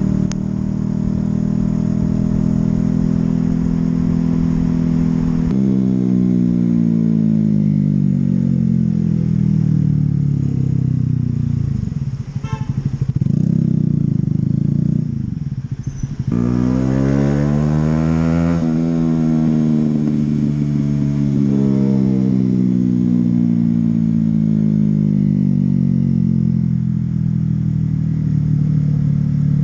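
Honda CB125R's single-cylinder four-stroke engine heard from the bike while riding. It runs high, shifts suddenly about five seconds in and winds down as the bike slows, then runs low for a few seconds. Past the middle it revs up sharply, then falls away slowly as the bike eases off.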